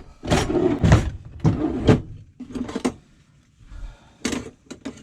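Rummaging in a kitchen drawer for a knife: utensils clattering and the drawer sliding for about three seconds, then a sharp click and a few light taps.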